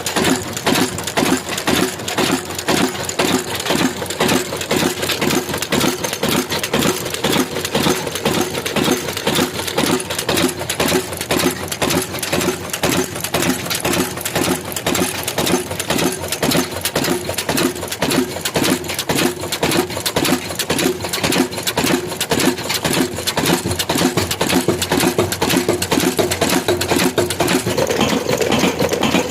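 Old black single-cylinder stationary diesel engine running at a steady speed, with a fast, even chugging beat. A steady hum grows in near the end.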